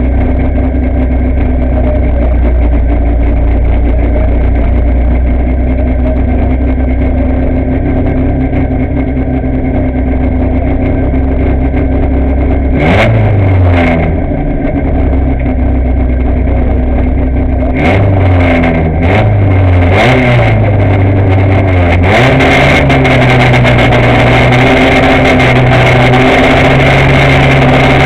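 VW Gol N1 rally car's engine idling, heard from inside the cabin; about halfway through the driver blips the throttle a few times, each rev falling back, and for the last several seconds holds the engine at a steady raised rpm.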